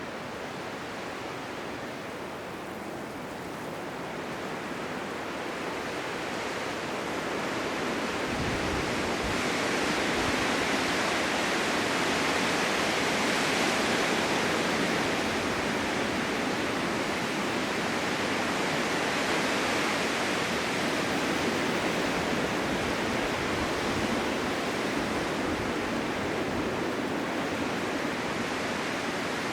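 Blizzard wind rushing steadily, swelling into a stronger gust a few seconds in and holding there.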